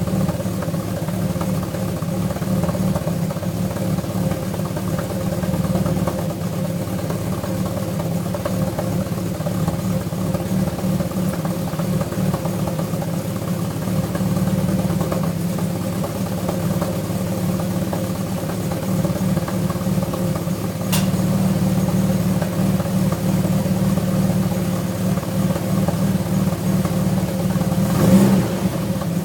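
Alfa Romeo V6 engine idling steadily while warming up after winter storage. Its note steps up slightly about two thirds of the way through, and there is a short rev near the end.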